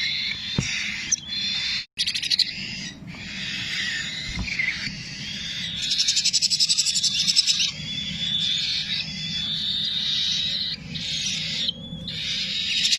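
Green-cheeked conures calling: continuous high-pitched chattering squeaks and screeches. A louder, rapidly pulsed buzzy call comes about halfway through.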